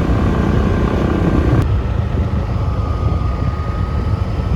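Motorbike on the move: engine and wind rumbling on the microphone. The sound changes abruptly about a second and a half in.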